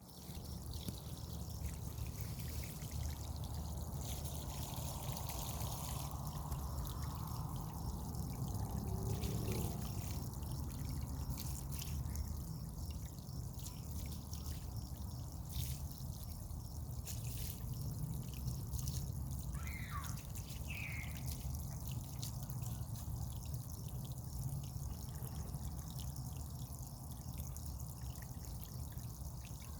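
Water trickling and pouring steadily, with scattered light ticks and two short high chirps a little past the middle.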